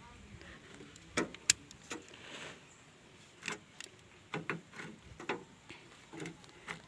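Scattered small clicks and knocks, about nine in all, from a 5-pin automotive relay being handled and pushed at its socket in a vehicle relay box while the mechanic searches for where it fits.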